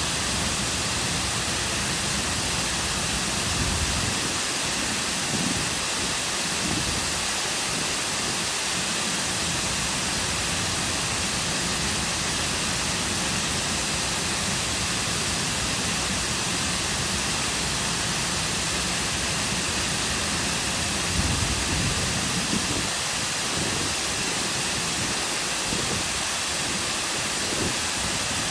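Man-made waterfall cascading into a lake: a steady, even rush of falling water, with a brief low rumble about two-thirds of the way through.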